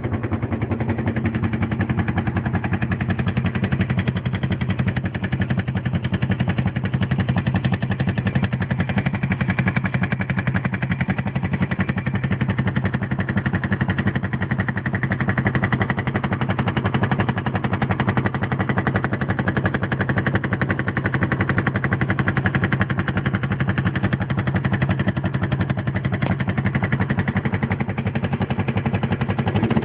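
Suzuki GS500 air-cooled parallel-twin motorcycle engine running steadily at idle, with a fast, even pulsing running through it. It carries a weird noise whose cause the owner does not know.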